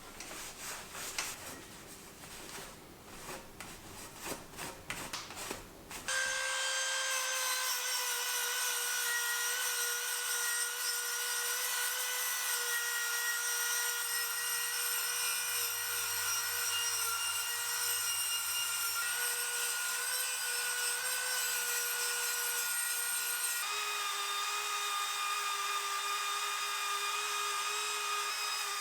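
Hand scrubbing or rubbing for about six seconds, then a small high-speed power tool starts and runs with a steady whine, its pitch dropping slightly a few seconds before the end, as the old bike frame's paint and residue are worked off.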